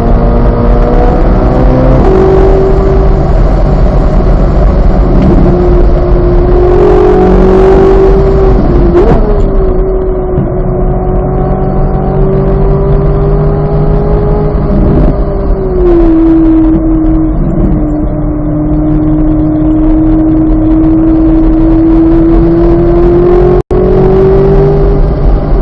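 2023 Corvette Z06's flat-plane-crank V8 running hard on a race track. Its note holds fairly steady, then steps down in pitch about 2 seconds in and again about 16 seconds in. There is a split-second dropout in the sound near the end.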